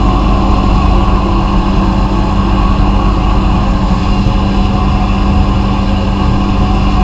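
Abrasive blasting cabinet running: a steady, loud hiss of the blast over a constant motor hum.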